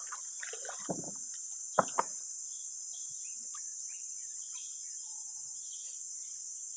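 Steady high-pitched chorus of insects. About two seconds in there are two sharp knocks, with a duller thud a little before them.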